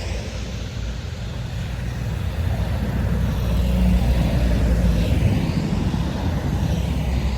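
Truck engine running under load as it climbs a steep hill, growing louder to a peak about four seconds in and then easing slightly.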